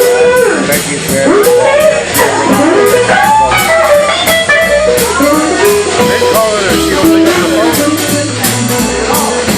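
Live blues band playing: a lead electric guitar solo with bent, sliding notes over bass and a drum kit keeping a steady cymbal beat.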